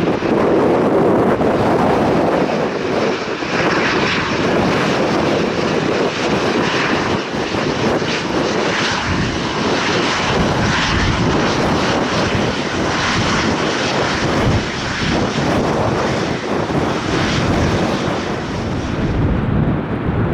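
Airliner engines at an airport, a loud continuous rushing roar that wavers in strength; its highest hiss drops away near the end.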